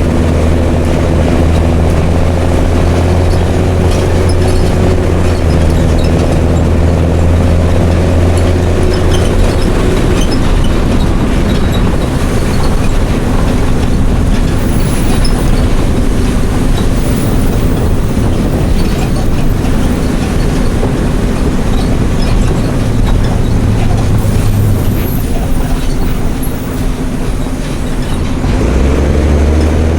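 A Mercedes-Benz OM366LA turbo-diesel straight-six in a city bus with a straight-through, open-pipe exhaust, pulling strongly at first. Around nine seconds in it eases off, leaving mostly road and body noise. Near the end it pulls again with a rising pitch as the bus accelerates.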